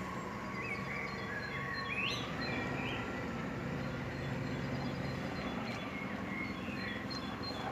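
Diesel engine of an arriving city bus running steadily with a low rumble, while birds chirp over it in several short rising calls.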